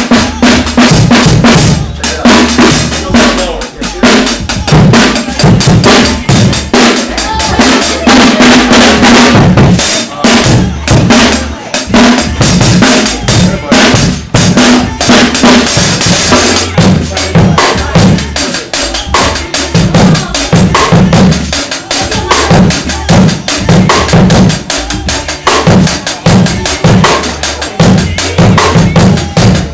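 Drum kit played loudly and continuously, with kick drum, snare and cymbals struck in a busy, fast pattern.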